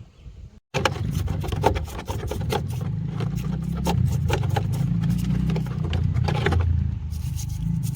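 Fuel pump parts being scraped and sanded by hand: quick, irregular scratchy strokes over a steady low rumble. It starts abruptly just under a second in, after a moment of silence.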